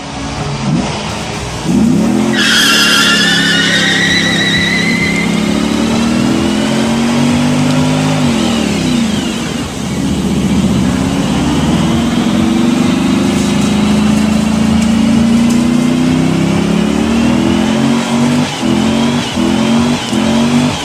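V8-style car engine sound revving up and down, with a loud tyre squeal about two seconds in, then a run of short, quick blips of the throttle near the end.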